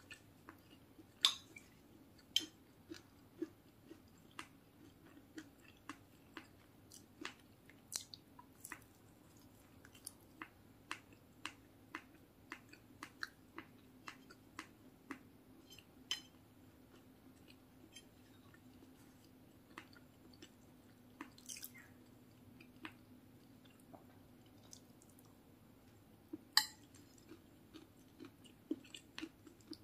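A person chewing food close to the microphone, with irregular sharp wet mouth clicks and smacks, about one or two a second, thinning out for a few seconds past the middle.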